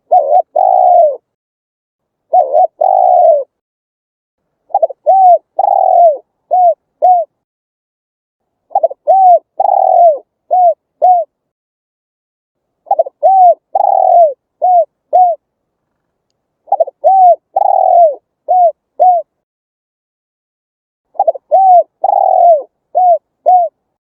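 Spotted dove cooing in repeated phrases about every four seconds. The first two phrases are two coos each; the rest are five coos, with a longer third note, each note arching up and down in pitch.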